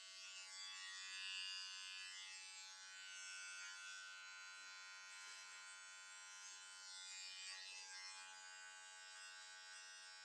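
Electric hair clippers buzzing steadily and faintly while shaving a lightning bolt design into a child's undershaved hair.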